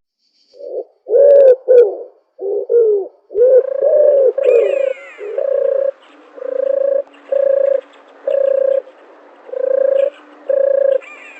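Dove cooing: a string of short coos, the first few gliding up and down in pitch, then a steady series of even, flat coos about one and a half a second.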